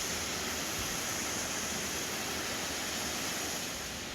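Waterfall pouring into a deep pool: a steady rush of falling water.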